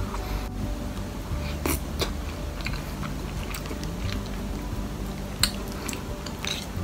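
Chewing of chicken-cutlet curry rice, with a few sharp clicks of chopsticks and a wooden spoon against the plate.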